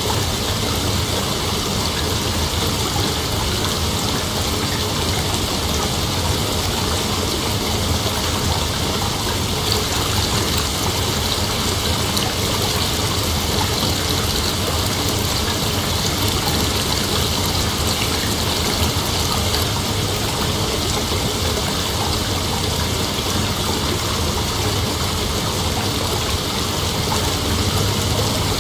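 Steady night-time nature ambience: an unbroken, dense hiss with no separate calls or events, brightest in a high band.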